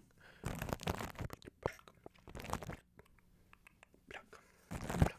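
Close-miked ASMR wet mouth sounds layered with microphone scratching: crackly clicks and smacks in irregular bursts, the loudest burst near the end.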